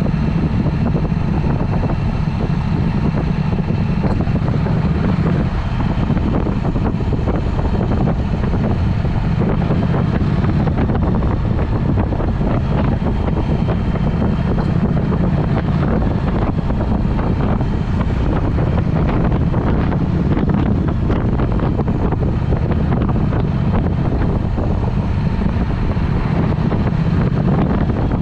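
Triumph Speed Twin parallel-twin with a Vance & Hines aftermarket exhaust running steadily while riding, with wind buffeting the microphone.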